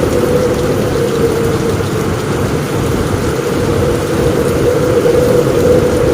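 Thunderstorm rain falling steadily on a roof, with a continuous low rumble underneath and no sharp thunderclap.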